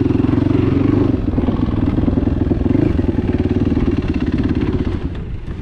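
Enduro motorcycle engine running at steady, moderate revs, dropping away about five seconds in.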